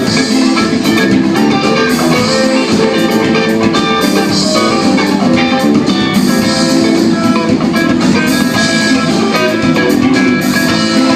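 A rock band playing live, with guitars strumming over a drum kit in a steady, continuous instrumental passage.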